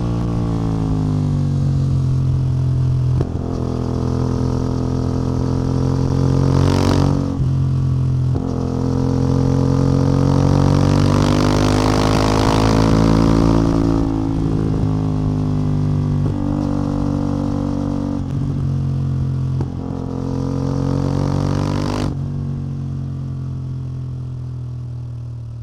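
CF Moto 450MT's 449 cc parallel-twin engine and exhaust under way, the note rising and falling with a few brief breaks between. About 22 seconds in it settles to a steadier, lower note and fades out near the end.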